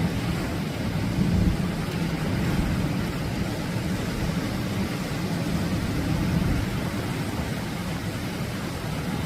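Atlantic ocean surf: a continuous wash of breaking waves that swells and eases slowly, heaviest in the low end.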